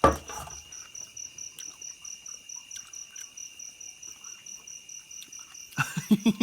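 Insects, crickets or cicadas, chirring steadily in a high pulsing trill, about eight pulses a second. A short loud sound right at the start, and near the end a person's voice breaks in with a quick run of rhythmic bursts.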